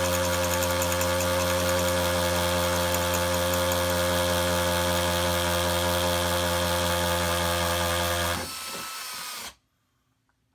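Power drill running steadily while boring pilot holes, with a steady motor pitch; it eases off and stops about nine seconds in.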